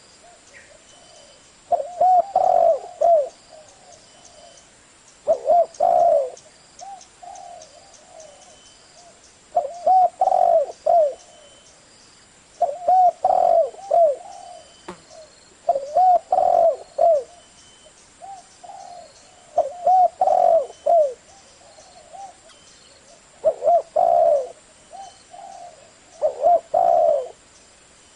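Spotted dove cooing: short phrases of low, looping coos repeated about every three to four seconds, some eight phrases in all.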